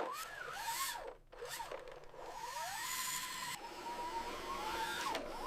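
Small electric motor and plastic gears of an RC toy garbage truck whining. The pitch glides up and down at first, then rises about two seconds in and holds steady, over a gritty grinding noise.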